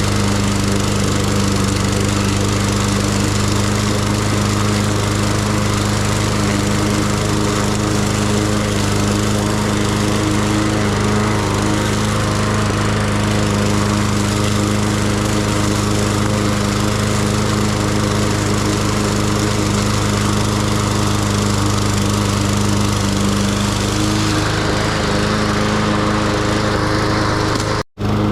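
Lawn mower engine running steadily at constant speed while cutting grass. The sound cuts out for an instant near the end.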